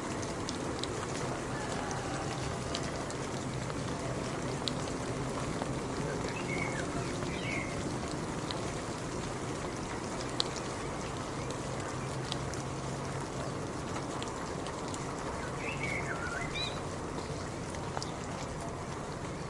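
Steady rain falling, with individual drops ticking on a surface throughout. A bird chirps briefly twice, about a third of the way in and again in the later part.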